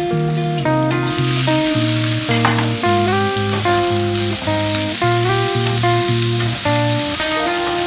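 Potato and carrot cubes sizzling in hot oil in a pan, stirred with a wooden spoon. The sizzle starts suddenly about a second in, as the carrots go into the oil. Background guitar music plays throughout.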